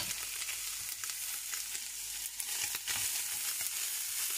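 Boiled chicken pieces sizzling steadily as they fry in a little oil in a pan, with a few light clicks of stirring.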